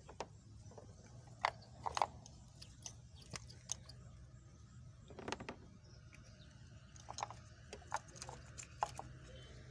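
Scattered light clicks and knocks of ignition coils being seated back into the engine and their plug connectors pushed home, a few at a time, over a steady low hum.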